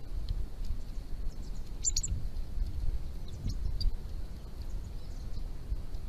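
Small birds giving short, high chirps: a quick cluster about two seconds in and a few single notes around three and a half seconds, over a low steady rumble.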